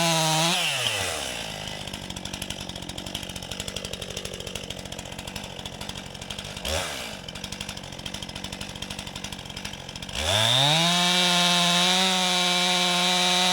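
Stihl MS 261 C-M two-stroke chainsaw coming off full throttle about half a second in and dropping to a steady idle, with a brief throttle blip midway. Near the end it revs back up to a steady full-throttle run.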